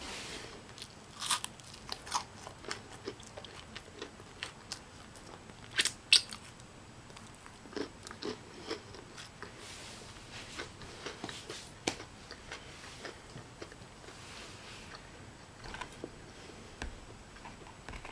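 Close-up biting and chewing of crisp honey biscuits, a string of sharp crunches with the loudest pair about six seconds in.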